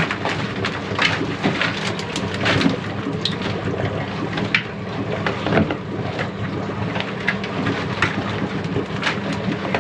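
Water splashing and dripping with quick irregular clicks and clatters as a wire crab trap is hauled aboard and emptied, over the steady low run of the boat's engine.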